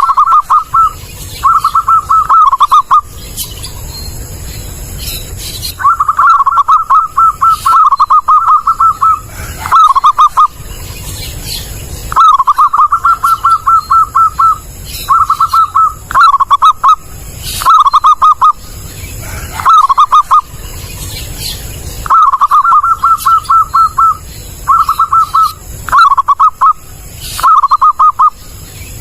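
Zebra dove (perkutut) cooing: repeated phrases of quick staccato notes, each ending in a few separate notes, with short pauses between bouts.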